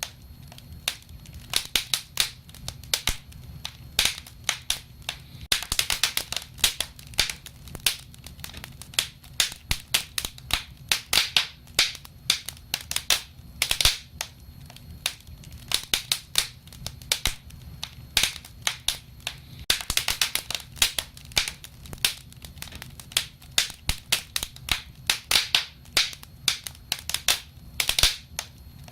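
Wood fire crackling: irregular sharp snaps and pops, several a second and bunched in bursts, over a low steady rumble.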